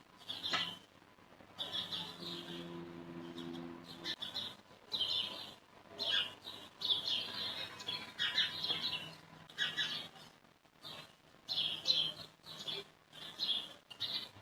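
Birds chirping in short repeated calls, several each second off and on, with a brief low hum about two seconds in.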